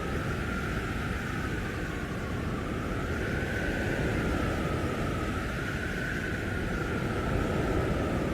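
Blizzard wind blowing hard: a steady rushing noise with a low rumble, and a thin howling whistle that slowly rises and falls in pitch.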